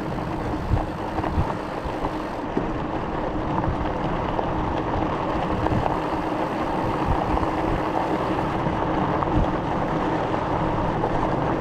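Steady rush of wind and tyre noise from an e-bike rolling on smooth pavement, with a faint steady hum underneath.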